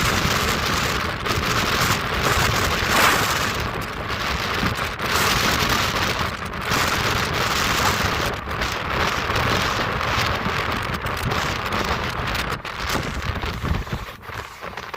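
Passenger train running at speed, heard from aboard: a steady rush of air and a low running rumble, with irregular clicks and rattles.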